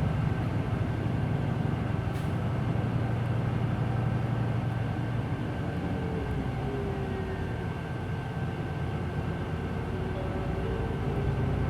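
Interior running sound of a Hino Blue Ribbon City Hybrid city bus under way: a steady low engine drone with faint whining tones from the drivetrain. It eases off slightly past the middle, then builds again.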